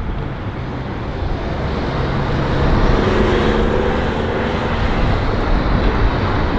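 Strong wind buffeting the microphone while a motor vehicle passes close by on the road, its engine and tyre noise swelling about three seconds in.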